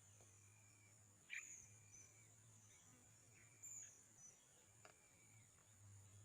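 Faint outdoor ambience: a steady high-pitched insect drone, with a few short high chirps a little over a second in and again past the middle.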